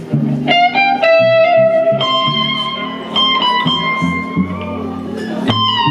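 Live slow-blues band: an electric guitar plays a lead of long sustained notes over a steady bass line.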